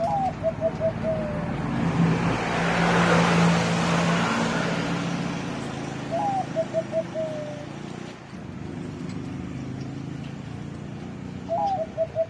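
Zebra dove cooing three times, each phrase a rising note, a quick run of three or four short notes and a drawn-out closing note, near the start, about six seconds in and near the end. Between the first two phrases a louder rush of noise with a low hum swells and fades, like a passing vehicle.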